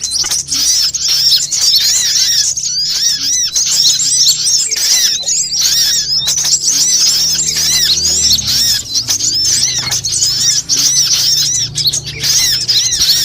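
Sunbird calls played as a trapping lure: a dense, unbroken stream of quick, high-pitched chirps and twitters, with a faint low hum beneath.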